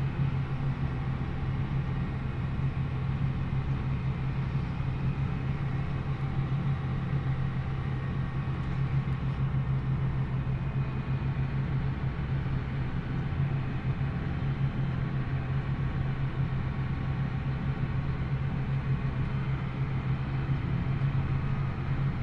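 John Deere 8400R tractor's diesel engine running at a steady speed while the tractor is under way: a constant low drone that holds without change.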